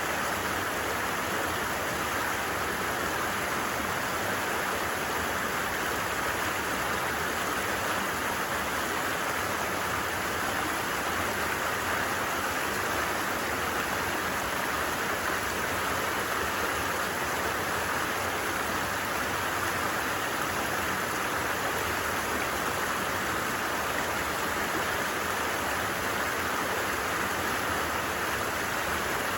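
A stream running steadily, a continuous even rush of water.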